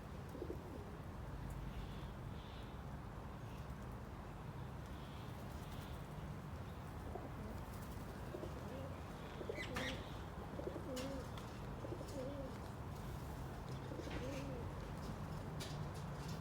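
Repeated low cooing bird calls over a steady low hum, with a few sharp clicks.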